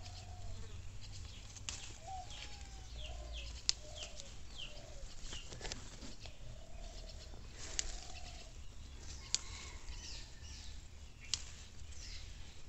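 Birds calling: repeated short arching calls and quicker high chirps, with a few sharp clicks scattered through.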